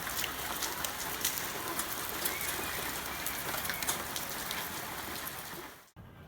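Hail and rain striking surfaces: a dense patter full of sharp ticks from the hailstones. It cuts off suddenly near the end to a much quieter background.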